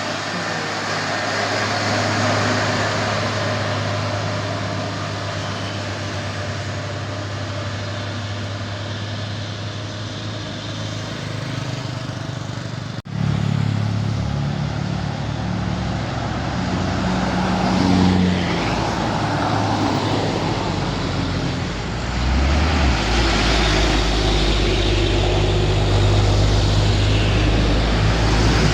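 Truck engines running on the hill road, with an abrupt change about halfway through; for the last few seconds a deeper, louder engine sound dominates.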